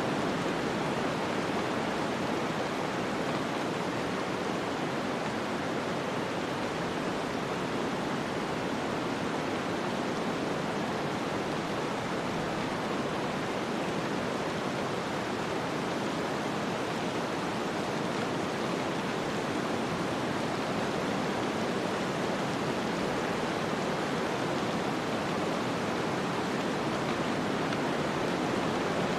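Snowstorm ambience: a steady, even hiss of wind-driven noise with no gusts or separate events.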